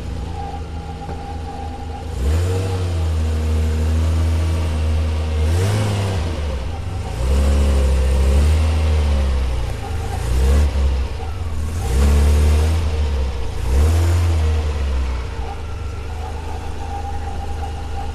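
Ferrari Testarossa Spider's flat-12 engine idling, then revved in about six throttle blips, each rising and falling in pitch, before settling back to idle near the end.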